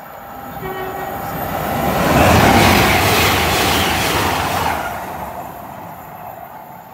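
Lumo Class 803 electric express train running through the station at speed without stopping. The noise of its wheels and air builds, is loudest about two to four seconds in, then fades away as it goes.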